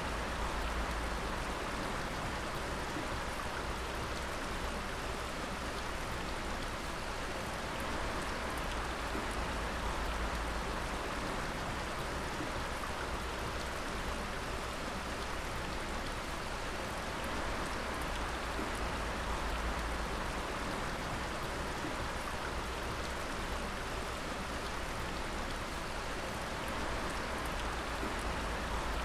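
Water dripping and pattering steadily onto wet rock and water, a continuous rain-like patter with a low rumble beneath.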